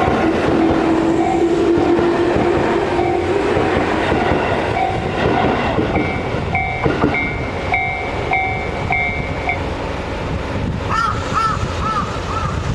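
A Tobu Noda Line electric train running through a level crossing, its wheels rumbling over the rails, with a whine rising slightly in pitch early on. The Japanese crossing bell rings its repeated "kan-kan" clang until about two-thirds of the way through, then stops.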